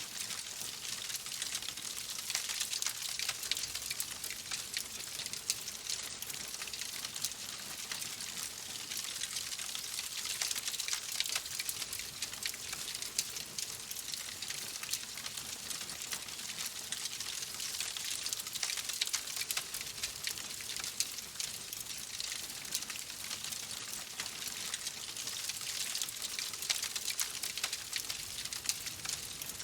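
Wood fire crackling in a fireplace: a steady hiss with many small, quick pops and snaps throughout.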